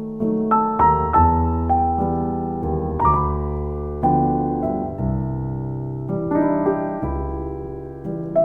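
Piano music: slow chords over bass notes, each note struck and then fading.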